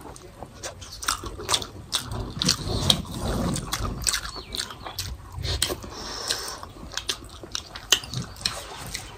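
Close-miked eating sounds of people eating rice and curry with their fingers: chewing, lip smacks and irregular wet mouth clicks.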